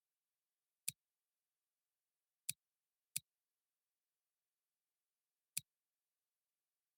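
Four short, sharp clicks at uneven intervals, against otherwise dead silence.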